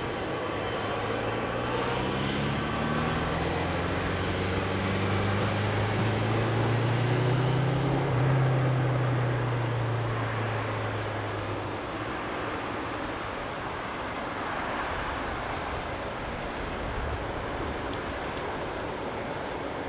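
Boeing 747-8F freighter's jet engines: a broad rushing noise with a low hum that rises in pitch, loudest about eight seconds in, then fading back to a steady rumble.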